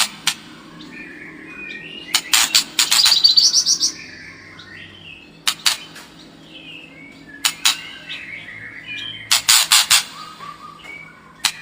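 White-rumped shama singing a lively, varied song: quieter warbled whistles broken every couple of seconds by loud, harsh rattling bursts, the longest about two seconds in and near the end.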